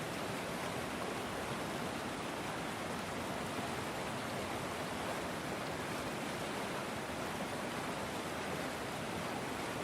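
River water flowing, a steady, even rushing with no separate splashes.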